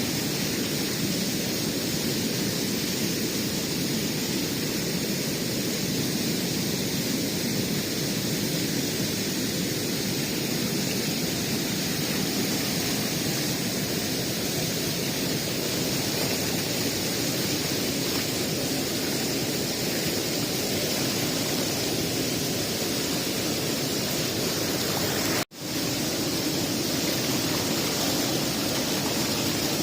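Steady, even rushing noise at a constant level, cut off for an instant about 25 seconds in.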